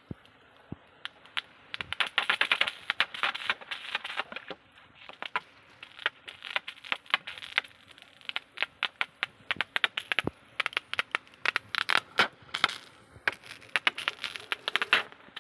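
Irregular crackling and crunching: a dense run of sharp clicks that starts about two seconds in, with short pauses.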